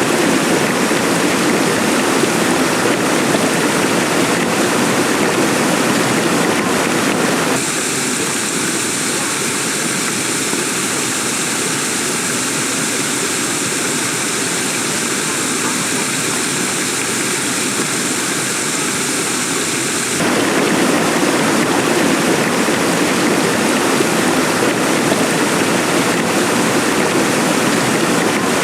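Heavy rain pouring steadily. From about seven seconds in until about twenty seconds in, the sound turns thinner and hissier, then returns to the fuller downpour.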